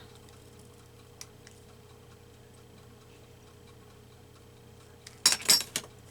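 Faint steady hum, a single small click about a second in, then a quick cluster of sharp clicks and paper rustles about five seconds in, from paper and cutting tools being handled during collage work.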